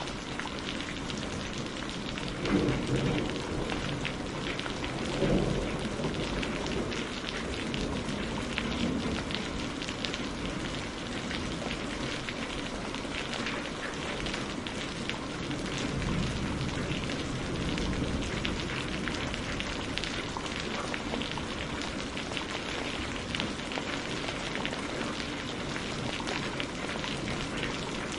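Steady rain falling, with the fine crackle of a burning wood fire mixed in. Two low rumbles stand out, about two and a half and five seconds in.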